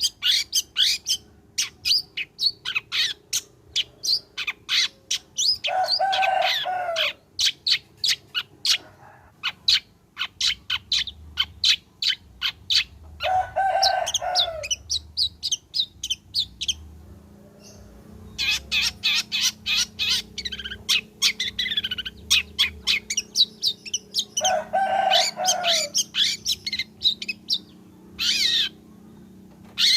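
Long-tailed shrike singing: rapid runs of sharp chattering notes, broken three times by a harsh, rasping call.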